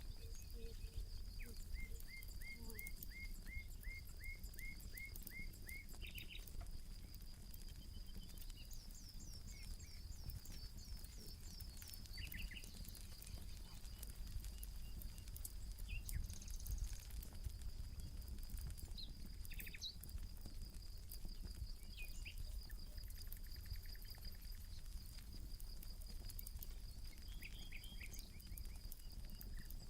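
Birds calling in series of short repeated falling notes over a steady high-pitched insect drone, with faint scattered crackles from a campfire and a low rumble underneath.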